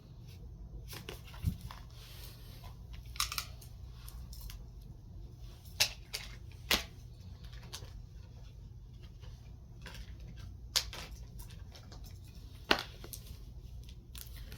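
Tarot cards being handled and laid down: about half a dozen short sharp snaps spread through, with faint rustling between, over a steady low hum.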